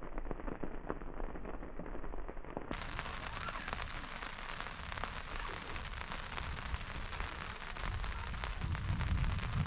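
Rain pattering steadily in dense small ticks. Near the end a low rumble builds up.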